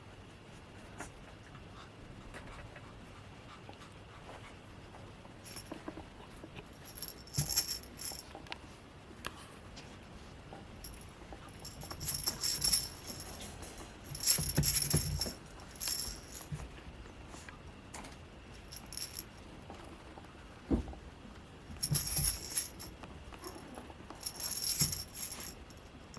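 A small bell jingling in irregular bursts, five or so clusters, each with soft thumps, as from a puppy's bell toy or collar bell being moved about.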